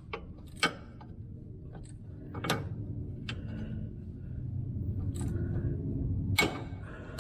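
Scattered sharp metallic clicks and knocks of a ratchet wrench and socket being worked on a fitting as it is tightened, the loudest knock about six seconds in, over a low rumble.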